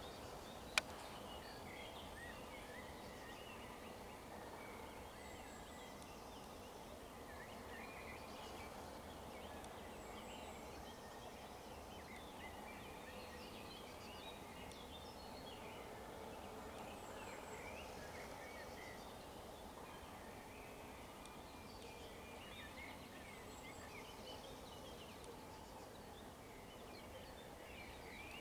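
Small songbirds singing: many short chirps and trills through the whole stretch, over a steady background hum. A single sharp click about a second in.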